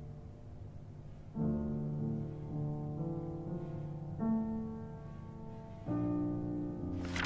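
Background score music: slow, sustained piano chords, a new chord entering about every one and a half to three seconds, with a brief hiss near the end.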